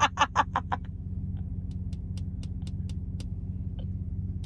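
A vehicle engine idling with a steady low hum. A quick run of sharp clicks sounds in the first second, and fainter light ticks follow a couple of seconds in.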